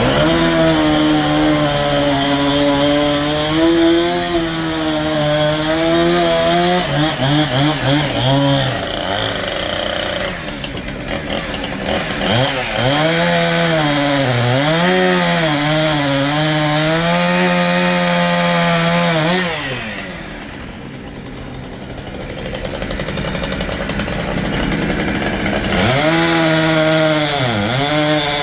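Frick sawmill's circular head saw, driven by a steam engine, cutting through a log: a loud whining saw tone whose pitch sags and recovers as the blade loads up. It comes in three cuts, with a short break about nine seconds in and a quieter lull around twenty seconds.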